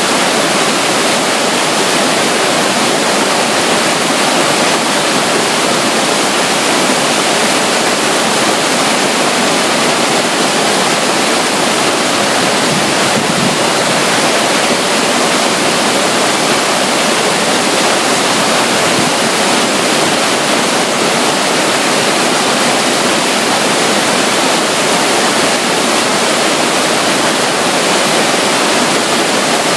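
A tiny rivulet of water flowing at the edge of a river, making an even, unbroken rush of water.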